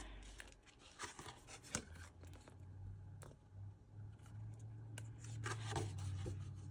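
Sheets of thick cardstock scrapbook paper being handled and turned over: faint scattered rustles and light taps.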